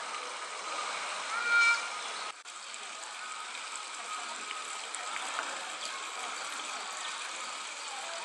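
Steady outdoor background noise with faint voices, and a brief, loud, high-pitched call about one and a half seconds in.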